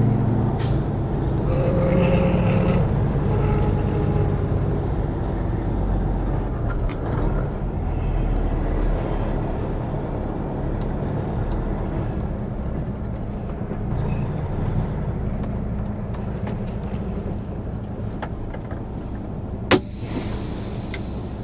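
Semi truck's diesel engine running, heard from inside the cab, its level easing off gradually; a short sharp noise near the end.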